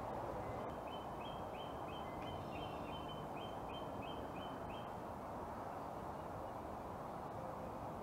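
A bird sings a run of about a dozen short, repeated notes, about three a second, lasting some four seconds, over a steady background hiss.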